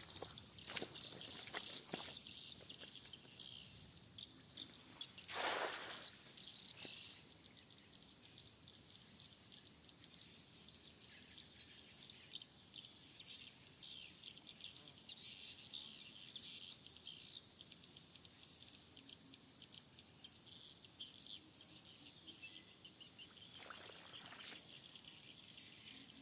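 Faint outdoor chorus of chirping insects and birds, with a few brief rustles or knocks near the start, about five seconds in, and near the end.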